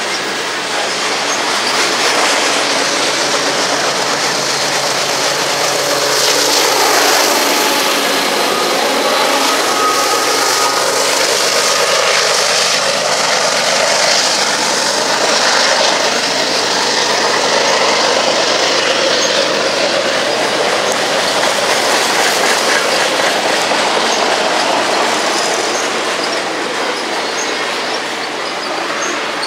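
Freight train of covered grain hopper cars rolling past close by: steady wheel-on-rail noise with clickety-clack over the rail joints and a brief wheel squeal. In the first half a mid-train diesel locomotive (distributed power unit) runs among the cars, its engine drone dropping in pitch as it goes by.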